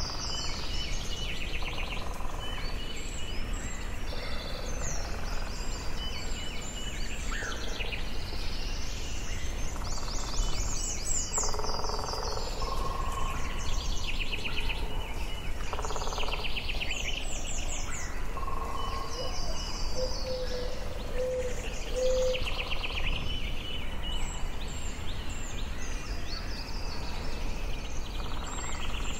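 Forest ambience: several birds singing and calling at once, in overlapping short trills and chirps, over a steady low rumble. A short run of lower whistled notes comes about two-thirds of the way through.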